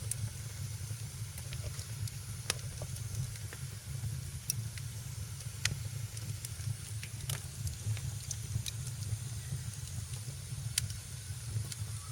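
Wood fire crackling in a fireplace: irregular sharp pops and snaps, about one a second, over a steady low rumble and a soft hiss of burning.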